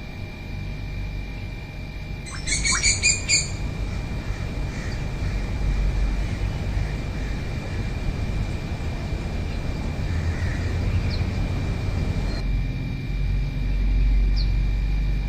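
A bird gives a quick run of high chirps about two seconds in, with one faint call near the end, over a steady low rumble and a thin, steady high-pitched tone.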